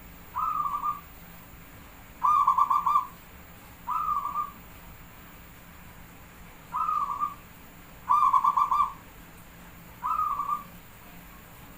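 Zebra dove cooing in repeated three-part phrases: a short coo, then a longer, louder rolling coo of rapid beats, then another short coo. The pattern comes twice.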